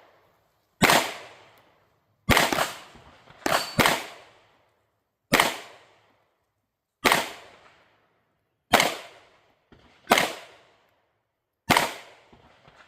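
Canik Prime pistol with a ported barrel and compensator, fired about nine times in slow, irregular succession, roughly a second or two between shots. Each report is sharp, with a short ringing tail.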